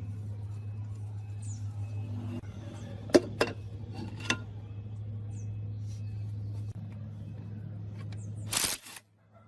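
A machine running with a steady low hum, with a few sharp metallic clinks about three to four seconds in. Near the end a brief loud rush of noise comes, and the hum cuts off abruptly.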